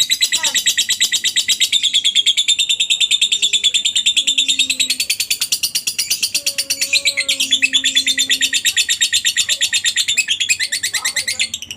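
Lovebird ngekek: one long, unbroken, fast chattering trill of high, evenly repeated notes, several a second.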